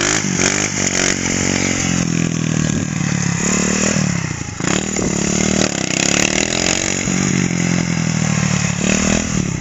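Pit bike's small single-cylinder engine revving hard, the pitch rising and falling over and over as the throttle is worked and gears change. The revs drop briefly about halfway through and again near the end.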